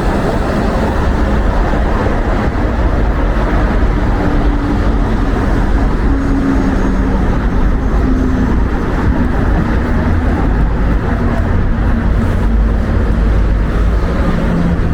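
Wind buffeting the microphone in a loud, steady low rumble, with the hum of street traffic faintly beneath.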